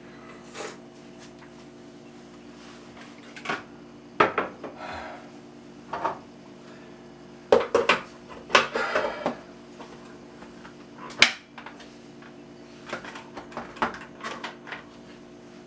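Spoon and dishes clinking and knocking in a kitchen, a scattered run of separate knocks with a few short scrapes, as a bowl of chicken salad is mixed.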